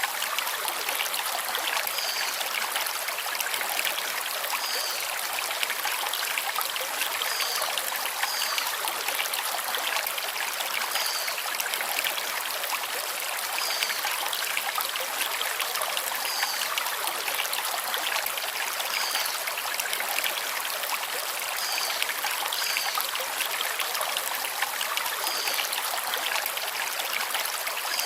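Shallow forest stream running over river stones: a steady rush of water. A short high bird chirp recurs every two to three seconds.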